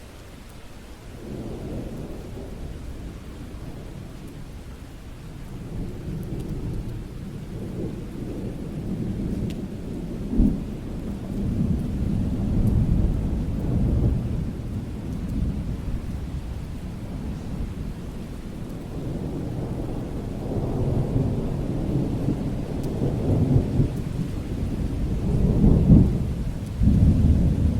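Thunder rumbling over steady rain, rolling in long swells that build and fade, with a sharper clap about ten seconds in and the loudest rolls near the end.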